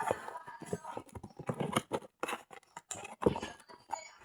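Handling noises from unboxing a power tool: an irregular run of small clicks, taps and rustles, with one louder knock a little past three seconds in.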